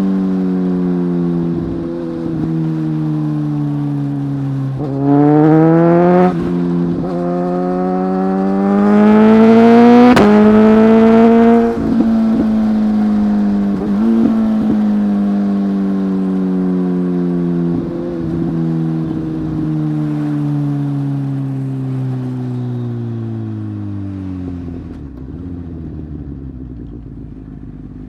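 Sport motorcycle's inline-four engine under hard acceleration. The revs climb twice to a loud, high peak about ten seconds in, then drop suddenly as the throttle closes. After that the engine slowly winds down and fades toward the end.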